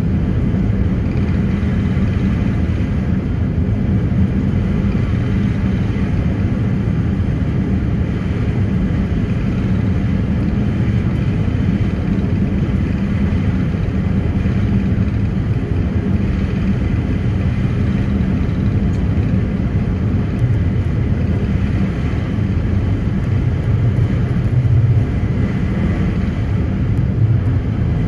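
A passenger ferry's engines running steadily: a loud, even, low drone with no breaks.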